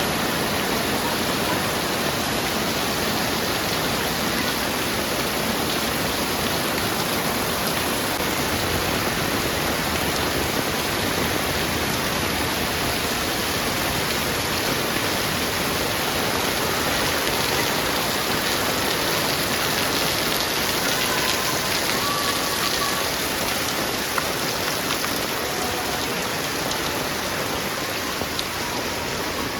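Heavy rain falling steadily: a dense, even hiss of rain on surfaces that holds at the same level throughout.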